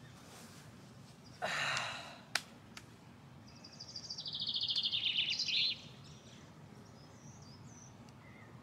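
A person lets out one breathy sigh, then a songbird sings a fast trill of about two seconds that steps down in pitch and ends with a short flourish. Faint bird chirps follow near the end over steady low outdoor background noise.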